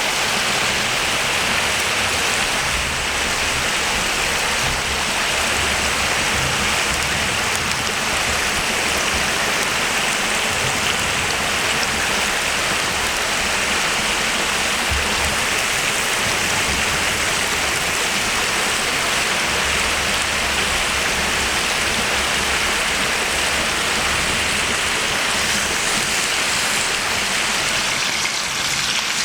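Food sizzling steadily in hot fat over a campfire, a loud even hiss.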